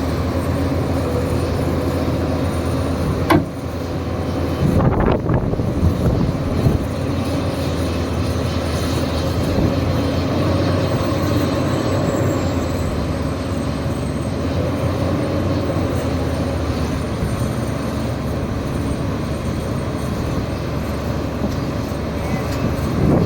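A hydraulic excavator's diesel engine running steadily, with a steady whine. A few sharp knocks come between about three and seven seconds in.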